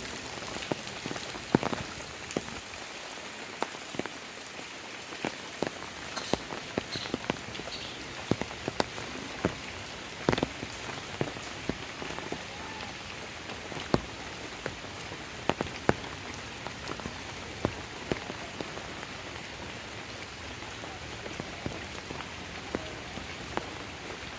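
Steady rain falling, an even hiss with many sharp, irregular taps of large drops striking a surface close by.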